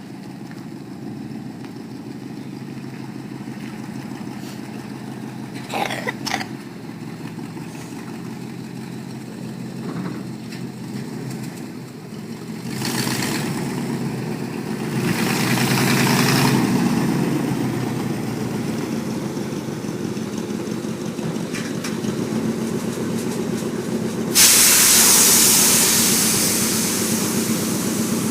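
Air-ride suspension on a 1955 Chevy panel truck being worked: a steady low running hum throughout, with hissing air through the valves swelling twice about halfway through, then a loud rush of air near the end as air is let out of the bags.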